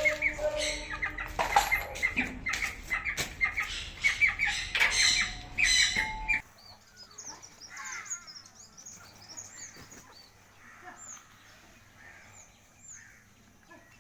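Parrot-beak Aseel chickens and chicks calling, with dense, repeated chirping for about six seconds. The sound then drops suddenly to a quieter stretch of soft, high peeps.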